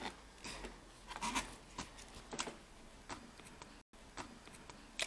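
Light plastic clicks and rustles of handling a laptop keyboard and its ribbon cable while fitting the cable into its connector, with one sharper click near the end.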